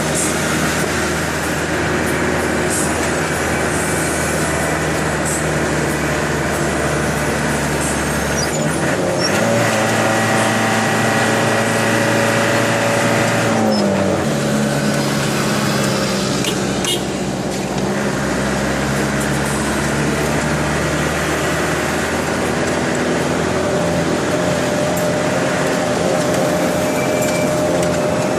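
Box truck engine running while driving, its pitch stepping up about eight or nine seconds in and shifting again about fourteen seconds in.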